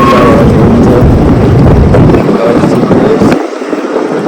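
Loud wind buffeting the microphone over the running noise of a moving vehicle, with a low rumble that drops away for about a second near the end.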